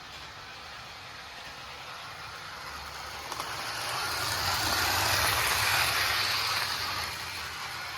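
Kusan Atomic Train toy locomotive's small DC electric motor whirring as it runs along the track, growing louder to a peak about five or six seconds in and then fading again.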